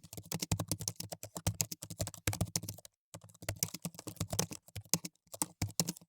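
Typing on a computer keyboard: rapid, irregular key clicks, with a brief pause about three seconds in.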